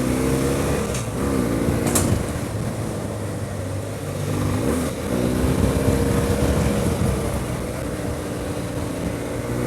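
BMW F800GS parallel-twin engine running under way, its pitch dropping and rising several times as the revs change through the ride, over a steady rumble and wind rush. There is a brief click about two seconds in.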